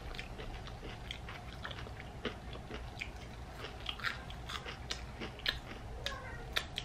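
Close-miked chewing of crunchy battered onion rings, a steady run of small crackling crunches. Near the end comes a short wet smack of a finger being licked.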